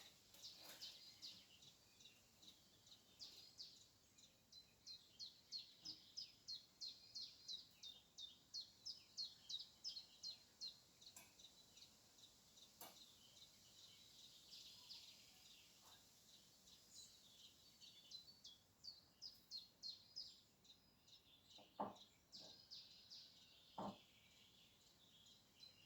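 Small songbird singing in repeated phrases of short, high, rapidly repeated notes, about four to five a second, each phrase lasting several seconds, with brief pauses between. A few faint knocks come near the end.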